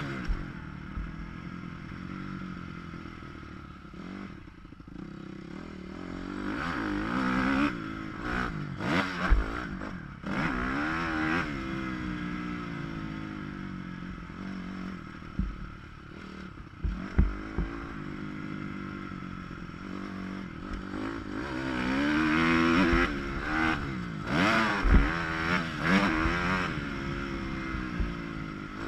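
Dirt bike engine revving up and falling off over and over as it rides a motocross track, muffled by a GoPro waterproof housing, with sharp knocks and clatter from the bike over bumps and landings.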